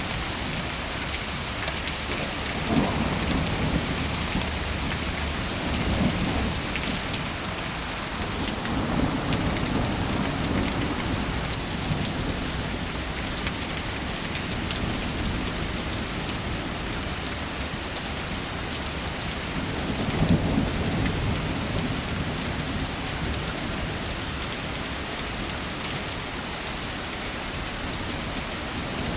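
Steady heavy rain falling, with low rumbles of thunder swelling up a few seconds in, again around ten seconds, and around twenty seconds.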